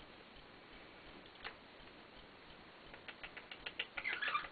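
Small sharp clicks from a white-bellied caique: one about a second and a half in, then a quick run of them near the end with a brief falling high squeak.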